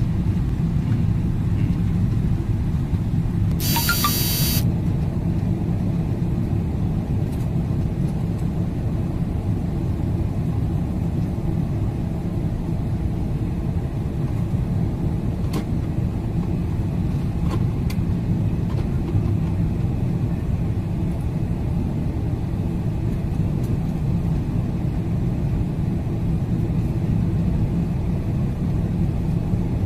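Steady low rumble of an airliner, with a brief high-pitched tone about four seconds in.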